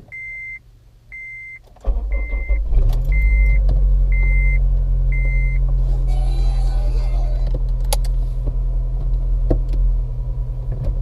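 A dashboard warning chime beeps six times, about once a second, while a 2007 Honda Civic Si's 2.0-litre four-cylinder engine starts about two seconds in. The engine revs up briefly, then settles into a steady idle.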